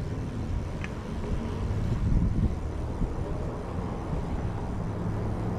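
Wind rumbling on the microphone and road noise of a bicycle ride, heard through a chest-mounted camera, with a short click about a second in.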